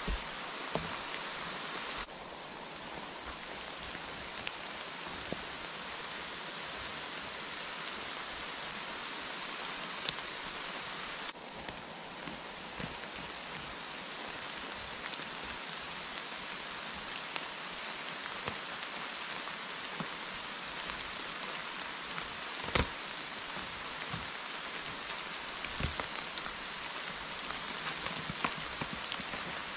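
Steady heavy rain falling on a forest canopy and leaf litter, an even hiss with scattered sharp ticks of drops and small knocks.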